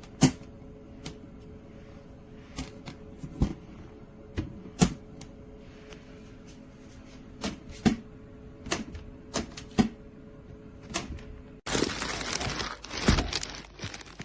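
Irregular sharp clicks and knocks of hard objects being handled over a faint steady hum. About three-quarters of the way through it cuts abruptly to a loud, dense crinkling and rustling.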